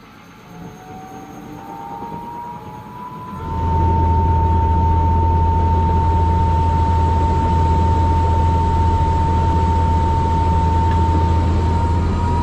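Airbus H130 T2 helicopter's Arriel 2D turboshaft engine spooling up at start: a turbine whine rising in pitch, then about three and a half seconds in a loud, steady low drone comes in beneath a steady whine as the engine comes up to speed.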